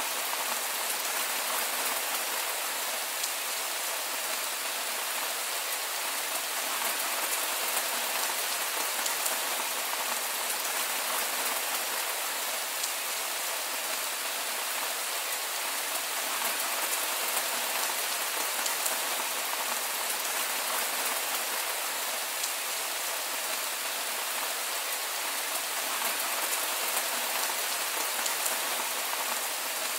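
Heavy rain falling steadily on a grassy field, ploughed soil and trees: an even hiss with no thunder.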